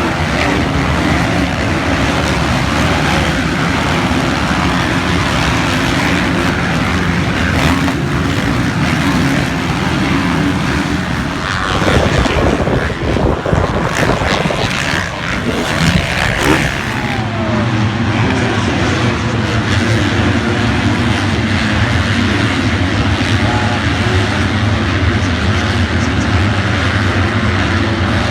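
Motocross bike engines running at high revs. About twelve seconds in the sound turns rougher and noisier for a few seconds, then settles into a steadier, lower drone.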